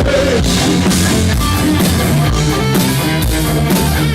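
Live rock band playing an instrumental passage: guitar over a steady drum-kit beat.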